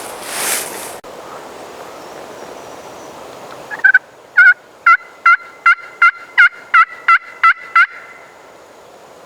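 A run of about eleven loud, evenly spaced turkey yelps, about two and a half a second, starting about four seconds in and stopping near the end, after a brief rustle at the start.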